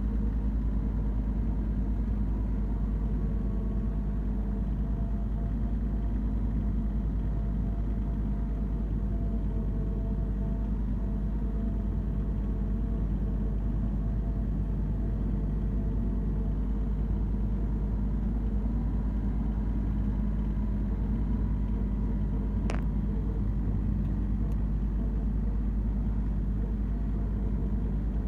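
Branson 3520R compact tractor's diesel engine running steadily while mowing, a constant low drone. One brief click sounds late on.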